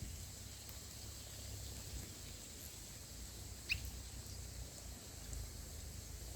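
Quiet outdoor ambience with a low rumble and steady hiss, broken once a little past halfway by a single short, high bird chirp.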